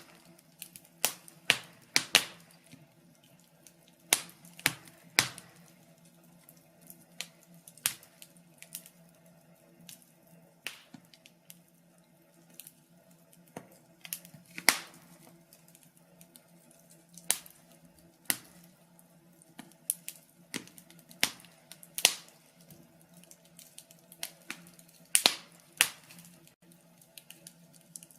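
Wood fire crackling: irregular sharp pops and snaps, sometimes in quick clusters, over a faint steady low background.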